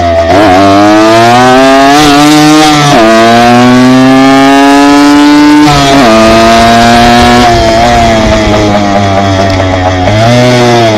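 Dirt bike engine pulling hard through the gears. The revs climb, then drop sharply with an upshift about three seconds in and again about six seconds in. It then runs at a fairly steady speed, with a brief dip and pick-up near the end.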